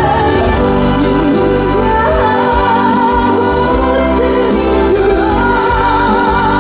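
Live trot song over a PA: a woman singing long, wavering notes with heavy vibrato over an amplified band backing track.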